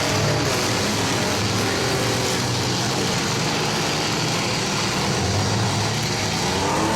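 Engines of several mini trucks, minivans and SUVs running together in a demolition derby, a steady dense engine noise, with one engine revving up and back down near the end.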